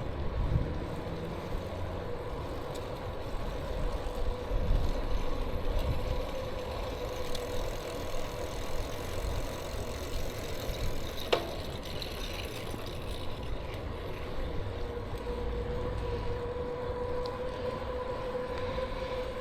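Riding noise from a bicycle on the road: wind rumbling on the microphone and road noise, with a faint steady whine throughout and a brief falling squeak about eleven seconds in.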